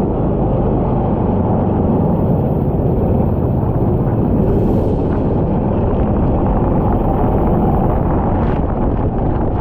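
Kart engine running at speed, heard onboard with wind buffeting the microphone: a loud, steady, dense rumble.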